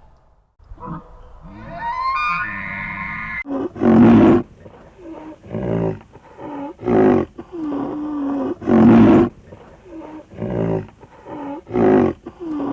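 A large animal giving a series of loud roaring calls, one about every one and a half to two seconds, starting about three and a half seconds in, with lower drawn-out sounds between them.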